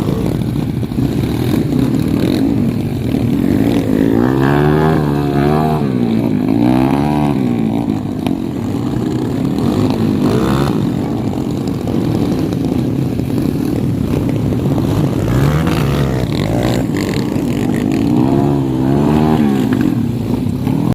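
Dirt bike engine running under a rider's throttle, its pitch rising and falling in repeated revving surges several times.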